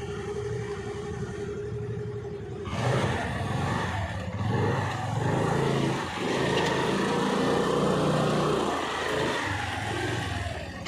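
Motorcycle engine with a steady note at first; about three seconds in it pulls away and runs louder, its pitch stepping up and down as it rides.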